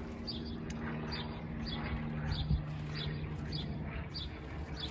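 A bird chirping over and over, short high chirps about twice a second, over a steady low hum.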